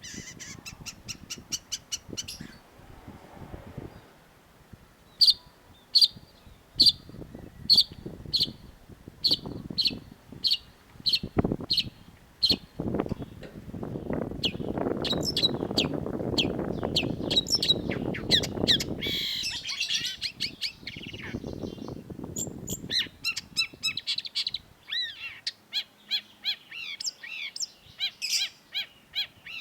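Long-tailed shrike (cendet) singing sharp, piercing high notes, first a run of evenly repeated calls about two a second, then rapid chatter and a fast, varied string of notes near the end. A low rushing noise sits under the middle of the passage.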